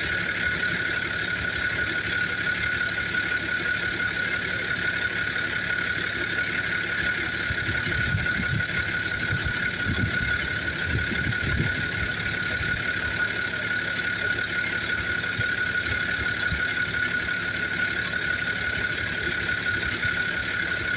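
An engine running steadily, with a constant high-pitched whine above its low rumble and a few heavier low pulses about halfway through.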